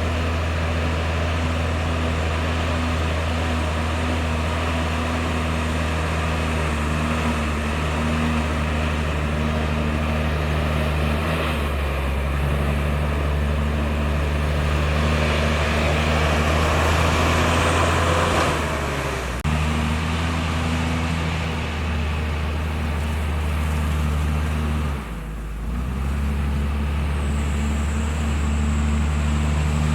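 Diesel engine of heavy earthmoving machinery running steadily with a deep hum, working harder and louder from about twelve seconds in, easing off briefly a little after eighteen seconds and dipping again near twenty-five seconds.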